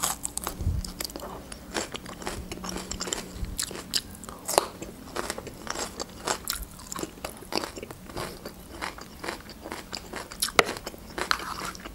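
Raw green bell pepper being bitten and chewed: many crisp, sharp crunches in quick succession.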